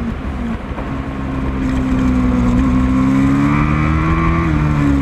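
Racing motorcycle engines running on the circuit at high revs, the note slowly climbing in pitch and getting louder from about a second in, then easing slightly near the end.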